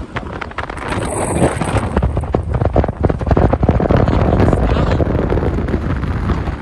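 Wind buffeting the microphone: a loud, crackling rumble that swells about a second in and drops away at the end.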